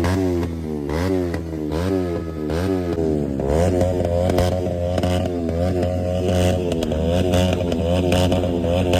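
Motorcycle engine revved in quick repeated blips, its pitch rising and falling about every half second. About three and a half seconds in, it is held at a steady high pitch.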